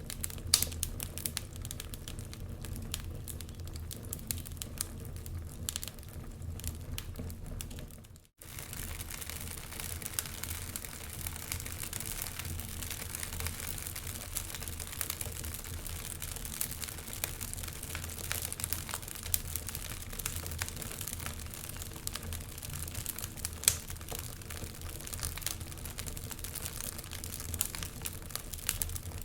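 Wood fire crackling, with constant small pops and snaps and a few louder ones, over a steady low rumble of winter wind. The whole sound cuts out for an instant about eight seconds in.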